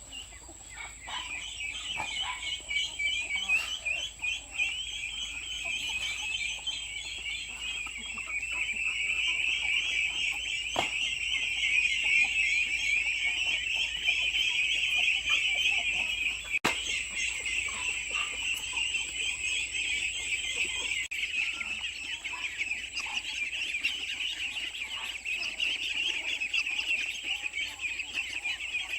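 Chickens calling and clucking under a dense, continuous high-pitched chirping chorus that swells in the middle, with a thin steady high whine above it.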